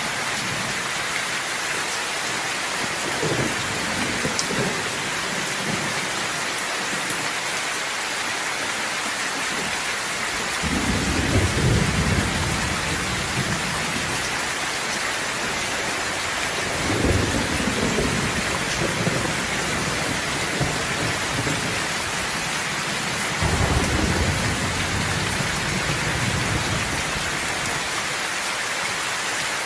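Steady rain hissing down, with rolling thunder: three low rumbles of a few seconds each come through, from about a third of the way in to near the end.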